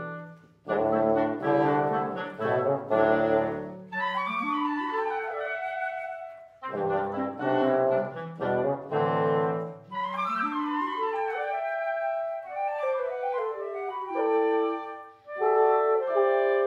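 Wind quintet (flute, oboe, clarinet, horn, bassoon) playing live: short chords together, with brief breaks about half a second in and again about six and a half seconds in, each followed by lines that step downward.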